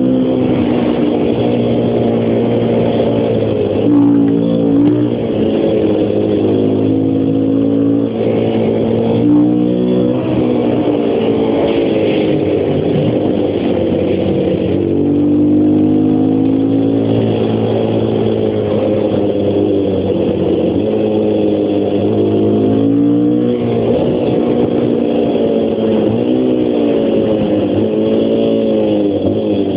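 Honda XR250's single-cylinder four-stroke engine running under way, its pitch rising and falling with the throttle, dropping briefly several times at gear changes.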